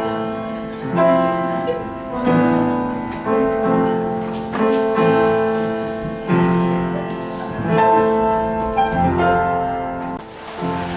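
Piano playing slow chords, a new chord struck about once a second and left to ring.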